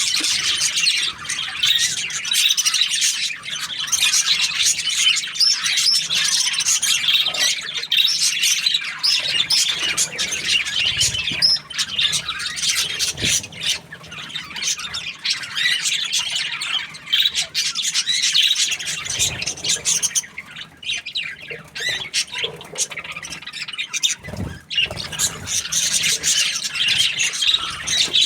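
Budgerigars chirping and chattering, a dense, continuous stream of high twittering with squawks.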